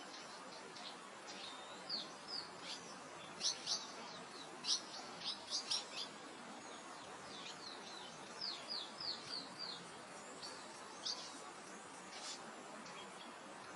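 Soft wind through open grassland with small songbirds chirping: short, high chirps in quick runs, busiest from about two to six seconds in and again around nine seconds in.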